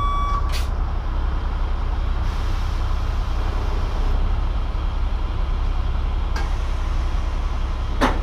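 Scania lorry's diesel engine running steadily with a low rumble. A last reversing beep sounds at the very start, and a few brief sharp sounds cut through, one about half a second in and one near the end.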